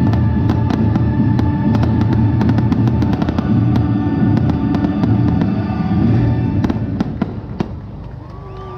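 A fireworks display going off in rapid succession, many sharp cracks over a deep rumble, with music playing alongside. The bursts thin out and the sound eases off near the end.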